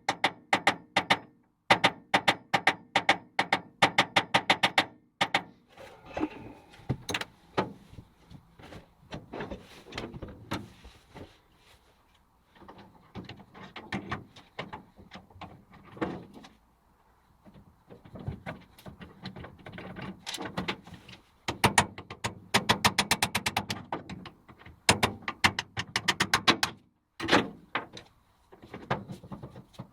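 Runs of sharp knocks and clatter, at times several a second, with a few quieter stretches between.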